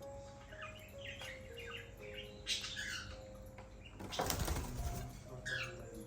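Cockatiels chirping in short calls, with a loud burst of wing flapping lasting about a second, around four seconds in.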